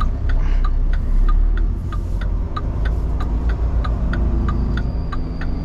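Inside a semi-truck's cab: the diesel engine idling steadily while the flasher clicks in an even rhythm, about three clicks a second.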